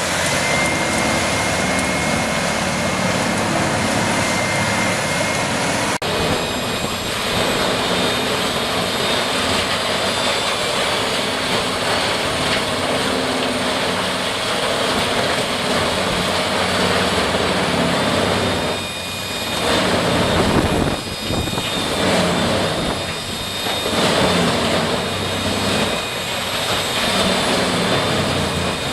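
Heavy machinery running loudly and steadily, a dense roar with a thin high whine; the sound changes abruptly about six seconds in.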